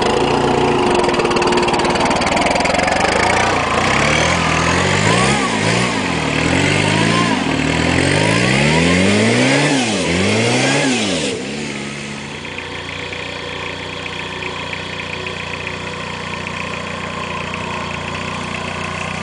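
Peugeot 306 1.9 turbo-diesel engine revving up and down several times in quick succession, then dropping back to a steady idle about eleven seconds in.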